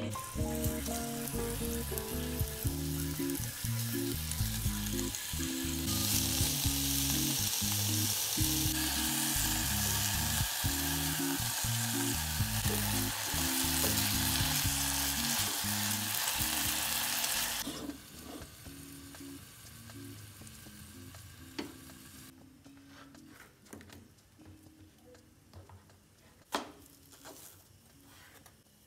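Chunks of tuna frying in a little coconut oil in a ceramic-coated pot, a steady sizzle that grows louder about six seconds in as tongs turn the pieces. The sizzle cuts off suddenly about two-thirds through, and a few sharp knife cuts on a cutting board follow. Soft background music plays underneath.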